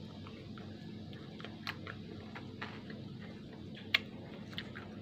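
Eating sounds from a burger-and-fries meal: scattered small mouth clicks and lip smacks while chewing and licking fingers, with one sharper click about four seconds in, over a steady low hum.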